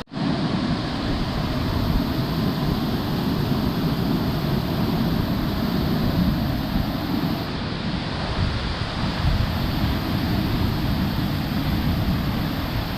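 Steady rush of a large waterfall's falling water, with wind driven off the falls buffeting the microphone.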